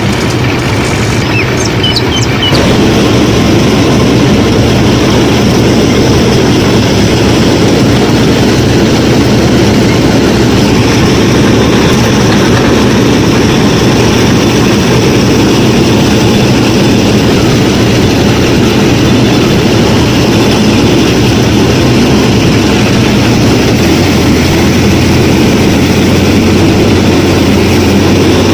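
Motor of a DIY mini combine harvester running steadily under load, getting louder about two and a half seconds in; a few bird chirps early on.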